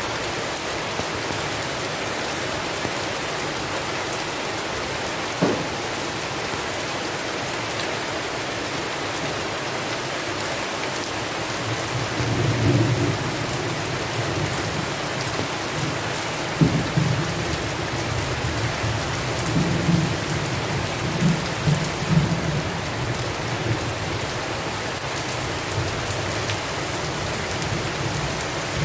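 Steady heavy rain in a thunderstorm. A brief crack of thunder comes about five seconds in. Low rolling thunder rumbles through the middle of the clip, loudest a little before the halfway point and again in a series of peaks after it.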